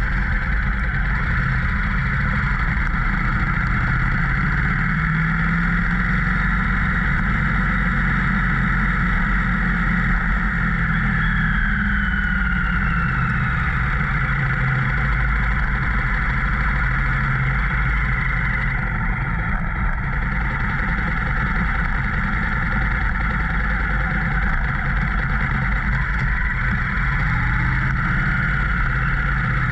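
Motorcycle riding at road speed, the engine running steadily under heavy wind rush on the microphone, with a few slow rises and falls in pitch.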